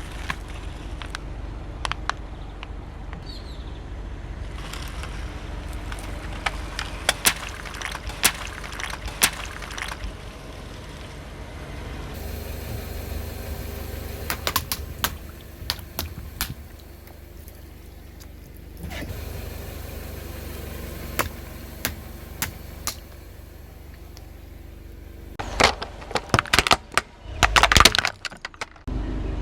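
Car tyre slowly rolling over brittle objects and crushing them: scattered sharp cracks and snaps over the low rumble of the car, with a dense run of crunching near the end.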